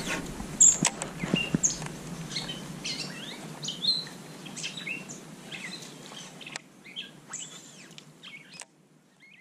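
Wild birds chirping and calling in a scattered chorus of short, high notes over faint outdoor hiss; the sound cuts off shortly before the end.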